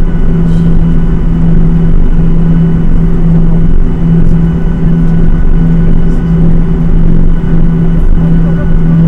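Boeing 737-800's CFM56 jet engines running, heard inside the cabin as a loud, steady drone with a constant low hum.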